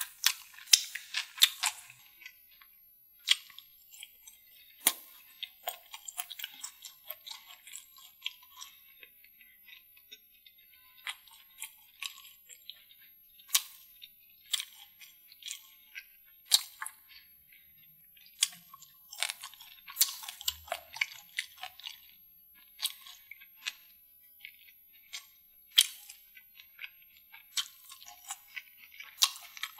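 Close-miked mouth sounds of someone eating saucy deviled food with his hands. Irregular wet chewing clicks and lip smacks, with the louder ones a second or more apart, and fingers licked near the end.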